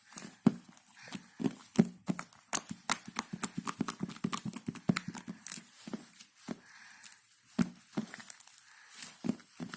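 Quick, irregular tapping and clicking, many light knocks in a row that thin out about two-thirds of the way through.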